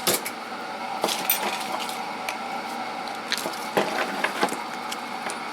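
Irregular clicks and knocks of small tools and parts being handled and set into toolbox drawers, about half a dozen in all, over a steady background hum.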